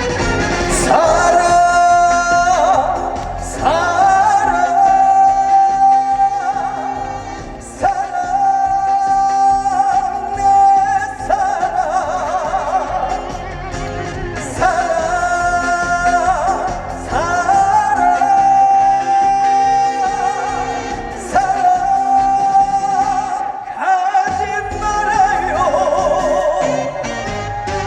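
Amplified live band playing a trot song, an instrumental passage between sung lines: a lead melody of long held notes with vibrato over steady backing, in repeating phrases. The bass drops out briefly near the end.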